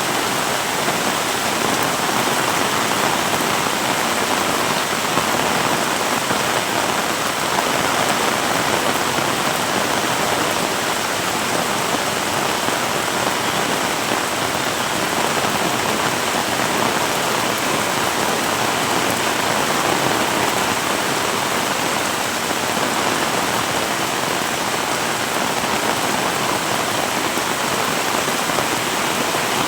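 Heavy rain falling and splashing on surfaces, a steady dense hiss.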